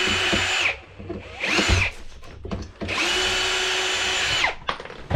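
Power drill-driver running in two short bursts, the first ending under a second in and the second starting about three seconds in and winding down near the end, as it backs screws out to take a guide board off.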